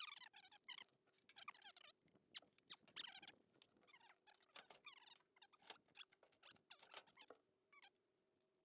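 Faint, rapid high chirps from small birds, many short downward-sliding notes in irregular clusters, over a faint steady hum.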